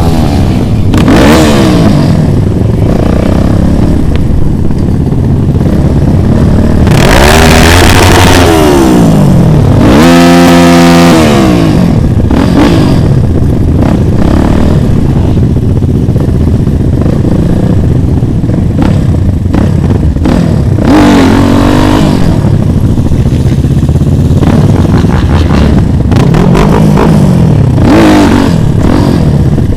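Motorcycle engine being ridden, revving up and dropping back again and again as it goes through the gears, over a constant rushing noise.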